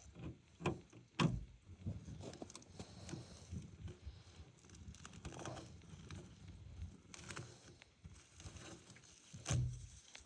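Scattered knocks, clicks and rustling handling noises of hands working at a pickup's side mirror. There are a few sharper thuds, the loudest near the end.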